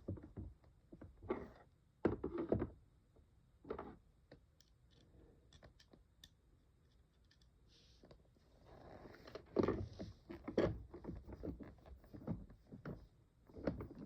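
Plastic parts of a toy aquarium being handled during a gear repair: scattered light knocks and clicks, then a busier stretch of rubbing and knocking about nine to eleven seconds in.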